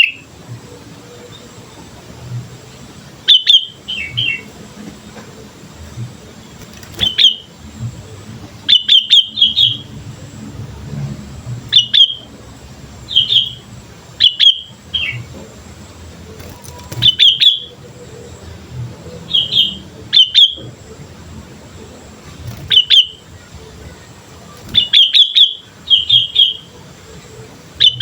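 Sooty-headed bulbul calling: short bright chirps, alone or in quick runs of two to four, repeating every one to three seconds over a faint low rumble.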